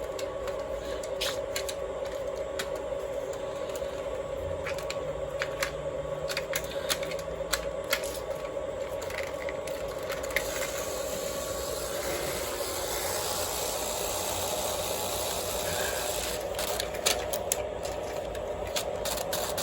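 An O-gauge model train runs on 027 track. Its electric motor hums steadily while the wheels click and rattle over the rail joints and switches. The rolling noise grows louder about ten seconds in.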